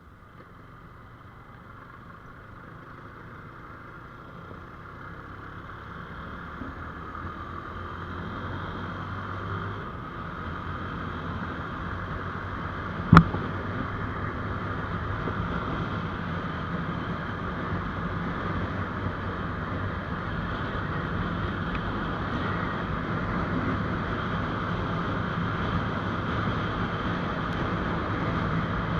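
GPX Demon GR200R motorcycle being ridden: a steady engine hum under wind and road noise, growing louder over the first half. A single sharp click about thirteen seconds in.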